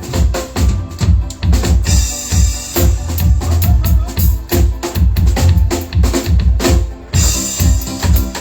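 Live band playing an instrumental passage led by the drum kit: a steady beat of kick and snare hits over a bass line, with cymbal crashes twice.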